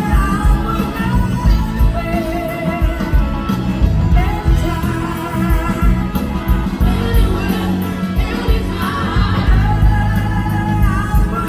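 Live blues-rock band playing, with drums and bass under a lead melody that bends and glides in pitch, and singing.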